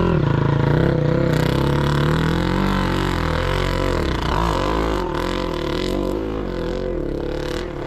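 Several sidecar motocross motorcycle engines running hard, their pitch rising and falling as the riders throttle up and back off.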